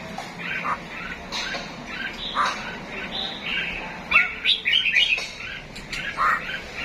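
Several cage birds chirping and calling over one another in short, quick notes, with the calls coming thicker and faster about four seconds in.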